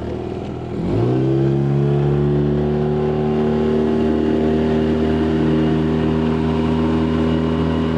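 9.9 hp outboard motor on a small boat opening up: about a second in its pitch and loudness rise sharply, then it runs steady at high throttle. The boat is pushing onto the plane with the motor's tilt setting just adjusted.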